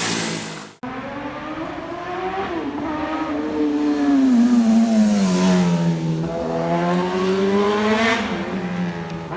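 Motorcycle engine revving, its pitch climbing and falling several times as the throttle is worked, with an abrupt cut to silence for an instant under a second in.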